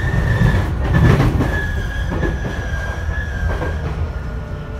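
JR East E233-series electric commuter train running, heard from inside the passenger car. A low rumble of wheels on rail carries a thin, steady high squeal that fades out about three and a half seconds in. A few rattling bumps come over rail joints, the loudest about a second in.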